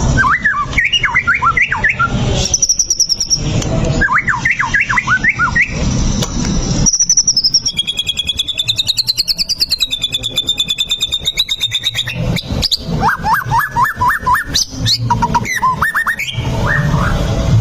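White-rumped shama (murai batu) singing in excited, aggressive full song: short bursts of quick up-and-down whistled notes, a brief high held note, then about five seconds of a fast, high, buzzing trill, and near the end more bursts of whistled notes.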